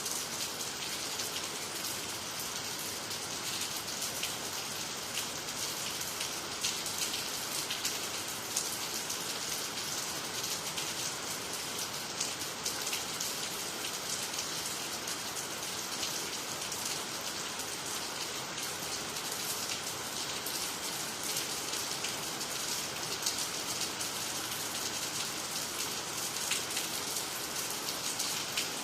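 Steady rain falling on water, trees and the ground, a constant hiss with many small drop impacts.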